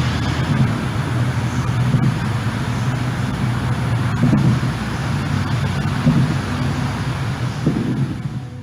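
Continuous low rumble with a rough noisy hiss over it: a recorded 'mystery boom' or skyquake rumble of unknown origin. It cuts off abruptly at the end.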